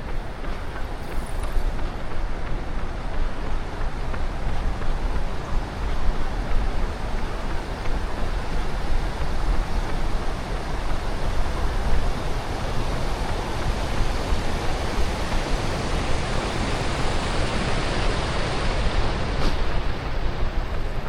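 Wind rumbling on the microphone of a runner's action camera, over road traffic noise that swells in the second half and eases near the end.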